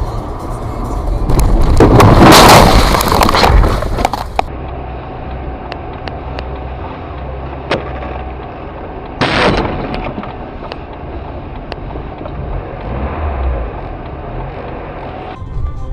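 Car collision heard through a dash cam's microphone: a loud crunching impact with rattling and breaking debris, lasting about three seconds. After it comes a steady low road rumble with scattered knocks and a second, shorter bang.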